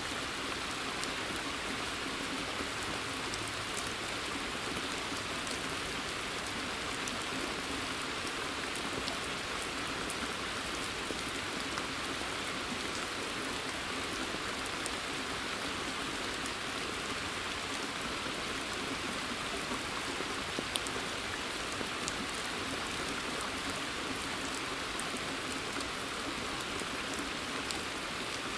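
Steady rain falling in a forest, with scattered drops pattering onto a pond's surface.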